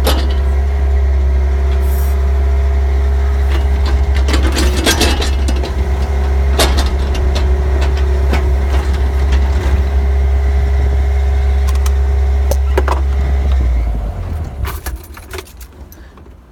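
John Deere 60G compact excavator's diesel engine running steadily, with a few sharp clanks and rattles, then shutting off about 14 seconds in.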